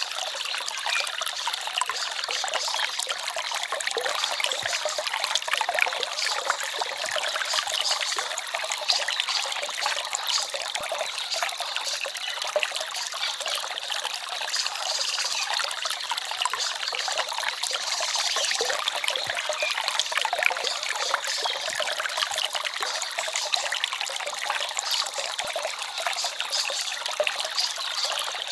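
Small forest stream babbling and trickling steadily: a light, splashy rush of water with almost no low rumble.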